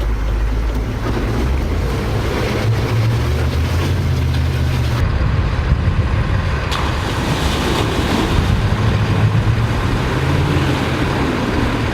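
Military Humvee's V8 diesel engine under throttle as the truck pushes into a deep mud-and-water hole, its low note rising and falling, with water and wind noise around it.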